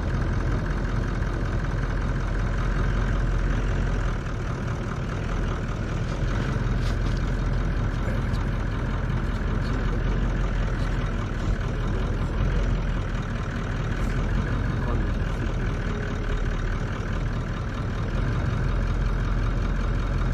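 Vehicle engine running steadily at a low idle, a continuous low rumble heard from within the vehicle.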